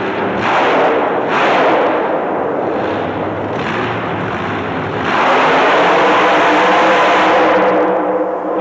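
A racing truck's engine running hard in loud surges: two short bursts in the first two seconds, another near the middle, then a long loud push from about five seconds in that drops away near the end.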